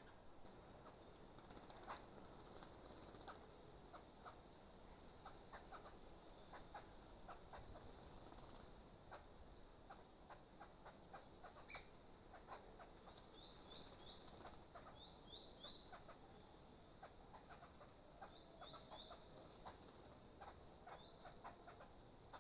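Small birds bathing: wings fluttering and water flicking and splashing in a quick irregular run, with one sharp louder splash about halfway through. Short rising chirps come in quick groups of two or three in the second half.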